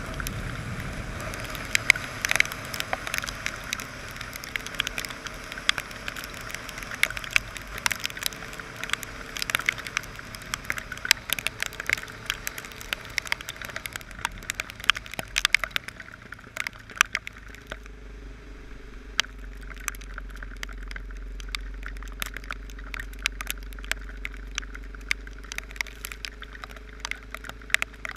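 Heavy rain on a motorcycle ride: raindrops strike the camera in many sharp, irregular ticks over a steady rush of noise. The motorcycle engine runs steadily underneath, with a low hum that sets in about two thirds of the way through.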